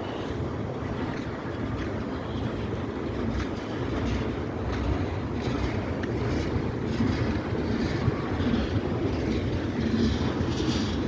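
Norfolk Southern freight train's cars rolling past: a steady rumble of steel wheels on the rails, with wheel clicks over rail joints that become more frequent in the second half.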